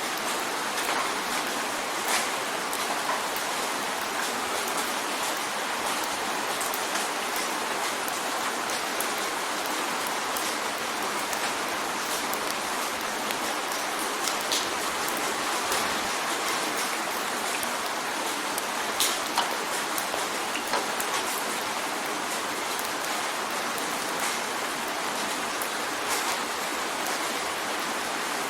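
Steady rain pattering on a window pane, a continuous hiss of rain with scattered sharper drop ticks.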